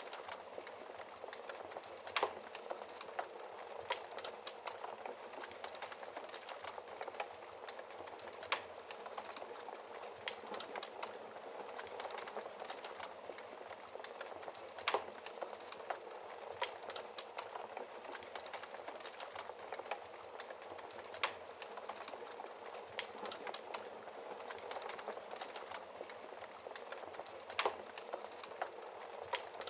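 Wood fire burning in a fireplace: a steady hiss with a constant soft crackle and a handful of sharper pops several seconds apart.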